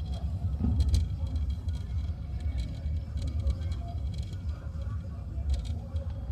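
Low, steady rumble of car engines, with scattered faint clicks and ticks over it.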